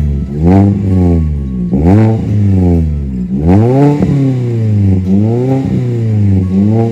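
A car engine revved repeatedly through an aftermarket exhaust. There are about six quick throttle blips, each rising in pitch and falling back toward idle, one of them held a little longer about halfway through.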